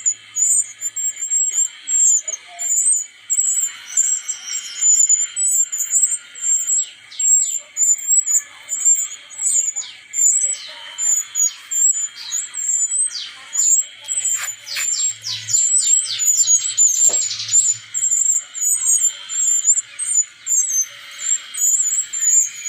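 Songbird calls: a fast series of very high chirps that keeps going, with a run of quick, falling whistled notes in the middle.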